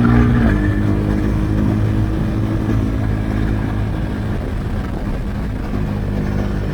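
Husqvarna Svartpilen 401's single-cylinder engine through an Akrapovic exhaust with the dB-killer removed, running under way. Its pitch shifts about half a second in, then holds at steady revs.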